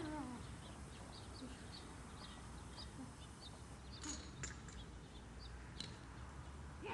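Faint, short, high bird chirps repeating about every half second, over a low steady outdoor rumble. A few sharp clicks come between about four and six seconds in.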